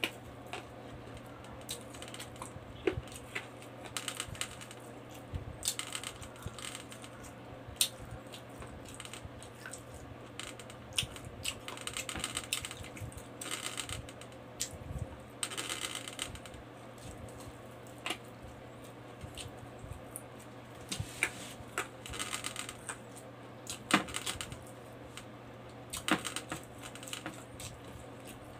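Close-up eating sounds of a man chewing rice and pork with his mouth: irregular wet clicks and lip smacks, with a few longer, louder bursts, over a steady low hum.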